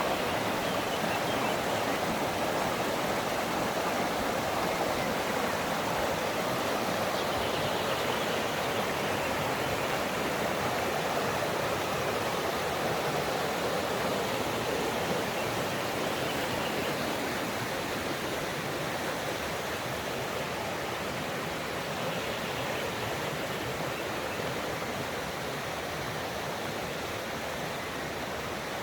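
Bistrica mountain stream flowing, a steady rush of water that grows slightly quieter after about halfway.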